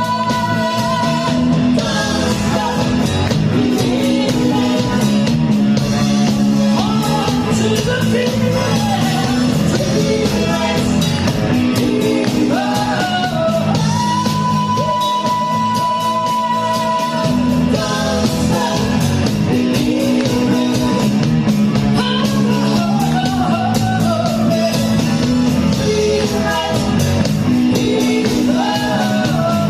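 Loud rock-style band music with a singer, the sung melody carrying held and bending notes over a steady bass line.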